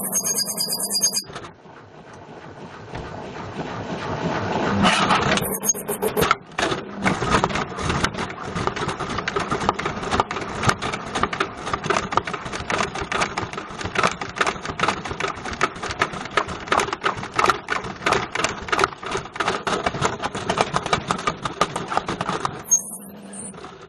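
Washing machine drum turning with a Bush VCR807 video recorder inside: a noisy build-up over the first few seconds, then a fast, continuous clattering of hard plastic and metal knocking in the drum, which stops suddenly near the end.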